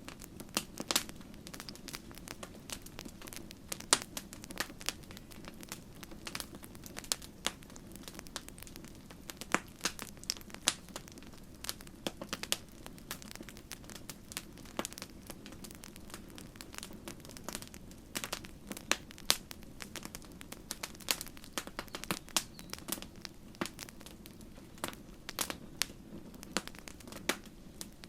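Campfire crackling, with irregular sharp pops and snaps of burning wood over a steady low rumble of the flames.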